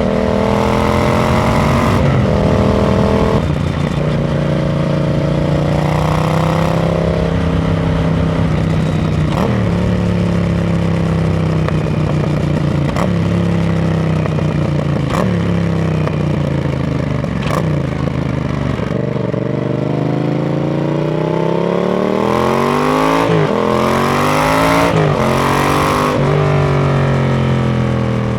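2018 Yamaha MT-07 parallel-twin engine running through an aftermarket RoadsItalia Thunder titanium exhaust, its pitch rising and dropping repeatedly as the engine speed changes. Near the end come several quick revs up and back down.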